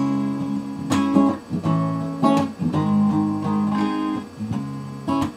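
Acoustic guitar strumming chords, an instrumental passage between sung lines.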